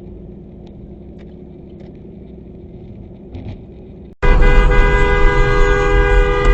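A low, steady vehicle hum, then about four seconds in a sudden loud car horn held in one long blast.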